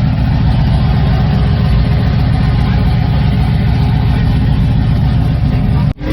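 A truck engine running loudly and steadily, its exhaust pulsing low.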